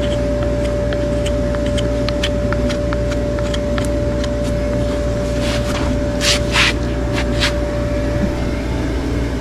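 A steady machine hum with one constant tone, scattered sharp clicks, and two short scraping bursts about six seconds in.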